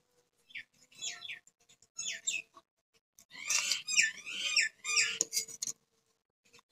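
Small birds chirping: several bursts of quick, high, falling chirps, with a few sharp clicks a little after the middle.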